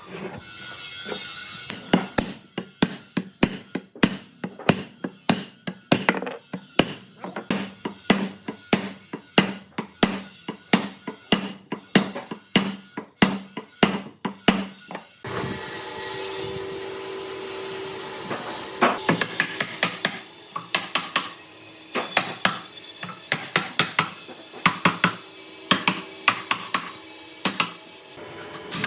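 Sharp knocks repeating about twice a second. About halfway through the sound changes to a steady hiss with irregular clusters of knocks.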